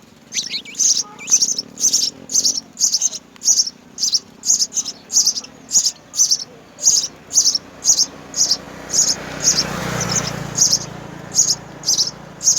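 House sparrows chirping: short high chirps repeated steadily, about two to three a second. A rushing noise swells and fades about three-quarters of the way through.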